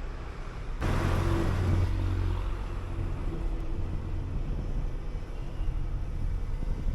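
City bus engine and road noise heard from on board, with a low hum that jumps sharply louder about a second in and then holds steady.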